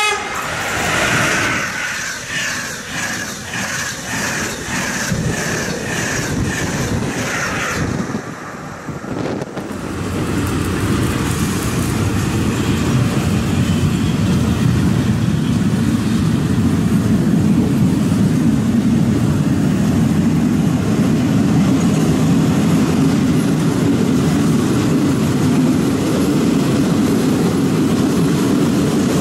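Frecciabianca train passing through at speed on a near track, with a regular beat from its wheels and a ringing rail noise over the first several seconds. From about ten seconds in, a departing freight train of car-carrier flat wagons loaded with vans rolls past close by with a steady low rumble that builds and then holds.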